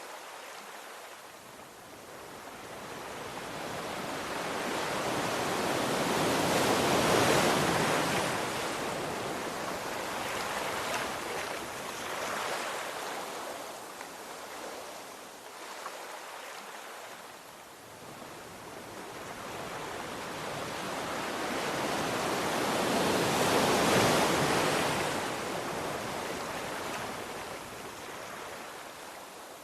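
Sea waves breaking on a shore, two large waves swelling to a peak about seven seconds and about twenty-four seconds in, each washing out slowly, with smaller surges between.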